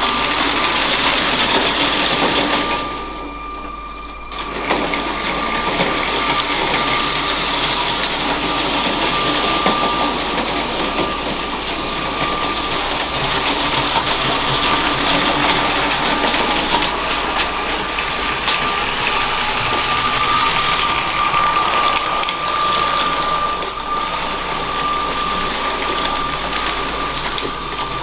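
LEGO train running on plastic track: its small electric motor whines at one steady pitch over the rattle of the wheels. The sound drops away for a moment about three seconds in.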